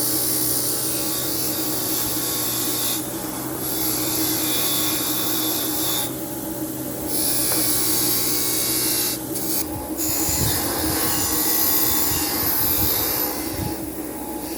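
A power tool running steadily with its abrasive working against a workpiece, giving a steady hum under a hiss. It lifts off or eases briefly about three seconds in, again around six seconds, and just before ten seconds.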